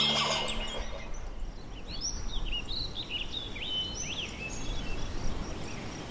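Small wild birds chirping and calling in quick, varied notes that rise and fall, over a low steady rumble of outdoor air.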